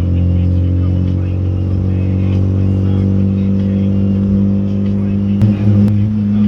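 Volkswagen Gol G2's AP four-cylinder engine with a straight-through exhaust and no muffler, droning steadily while cruising. About five and a half seconds in there are two sharp clicks and the engine note rises slightly.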